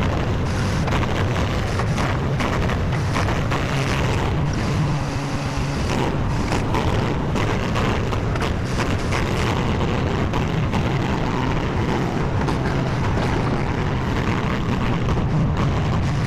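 Skid steer's engine running steadily, with scattered knocks and clatter over it.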